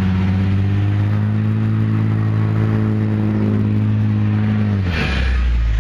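Stuck truck's engine held at high revs while the wheels spin for traction, its pitch creeping up slightly, then dropping sharply about five seconds in as the throttle is let off.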